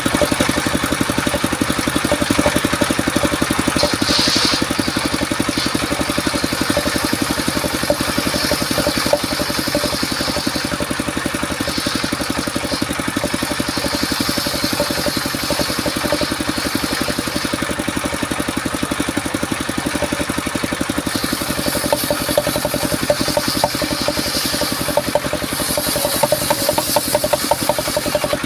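Engine of a portable circular sawmill running steadily, with a higher hiss that comes and goes several times over it.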